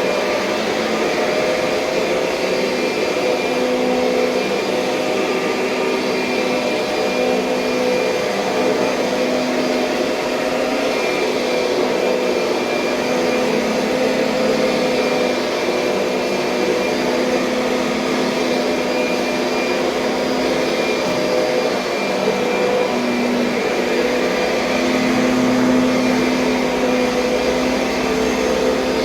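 Kirby Sentria upright vacuum cleaner running steadily, with a motor hum that wavers a little in pitch.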